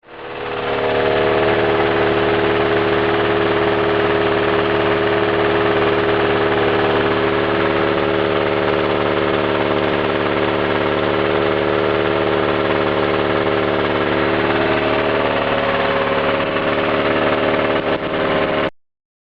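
Small stationary engine running steadily at a constant speed. It comes up within the first second, holds an even pitch, and cuts off abruptly near the end.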